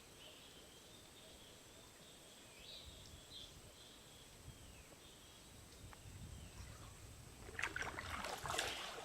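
Faint, high outdoor chirps, then splashing in water for the last second and a half or so, like kayak paddle strokes.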